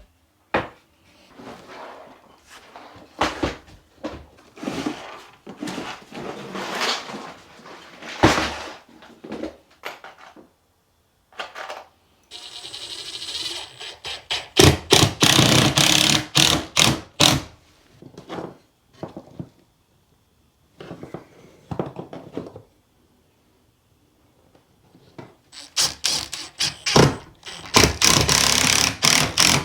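Knocks, thunks and clacks of wood and tools being handled and fastened, with a short rasping stretch about twelve seconds in and fast runs of strikes in the middle and near the end.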